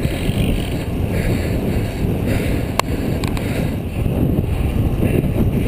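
Wind rushing over the microphone of a camera riding on a road bike at about 19 mph, a steady low rumble, with two short clicks about halfway through.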